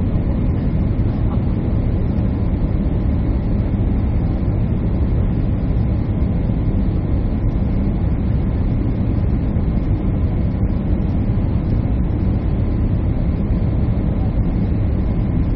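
Steady jet airliner cabin noise from engines and airflow, a low, even rush with a faint high whine held on top.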